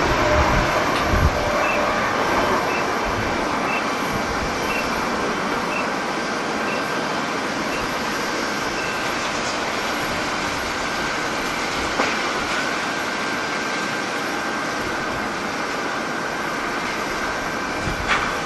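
Jet airliner engines running, a steady loud hiss with a thin high whine held through it.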